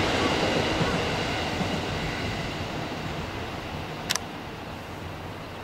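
Locomotive-hauled delivery train of Seibu 101 series electric cars running away into the distance on the line, its rumble fading steadily. A single short sharp click comes about four seconds in.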